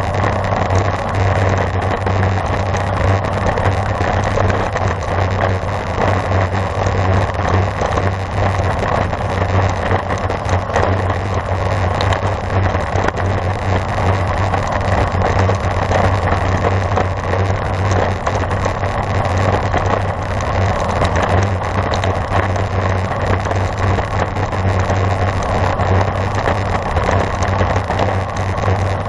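Steady rush of wind and road noise on a camera carried on a racing bicycle at speed, with a constant low hum underneath.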